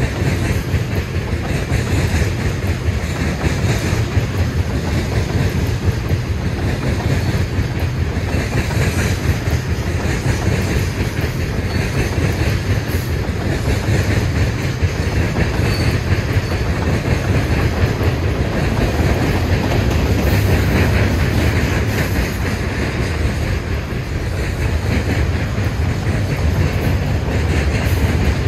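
Freight train cars rolling past: a steady rumble of steel wheels on the rails, strongest in the low range and holding level throughout.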